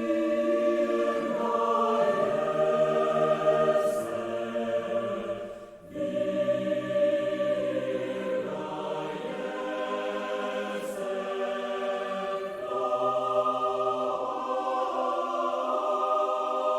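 Background music of voices singing slow, sustained choral chords, with a brief dip in loudness about six seconds in.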